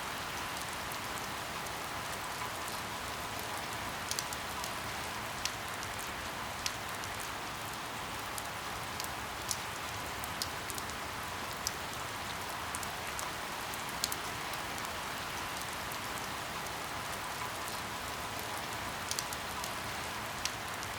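Steady rain falling, a continuous hiss with scattered individual drops ticking sharply against a window pane about once a second.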